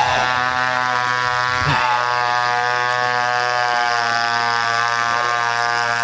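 Chainsaw running at a steady high speed while cutting wood.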